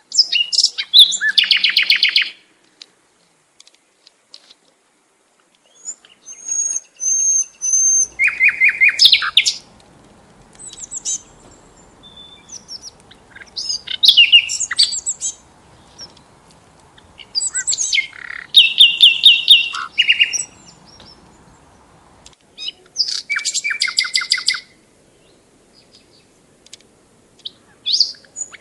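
A songbird singing in repeated phrases of rapid trills and chirps, each phrase one to three seconds long, with short pauses between them.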